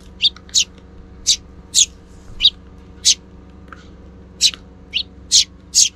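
Eurasian tree sparrows chirping: about ten short, sharp, high chirps at irregular intervals.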